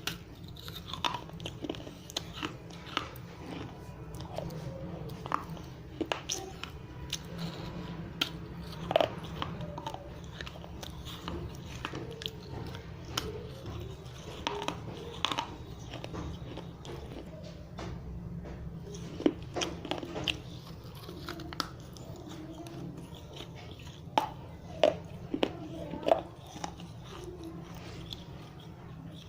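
Dry red clay diyas (small clay oil lamps) bitten and chewed close to the microphone: irregular sharp crunches as pieces of clay break between the teeth, with quieter crackly chewing in between, over a steady low hum.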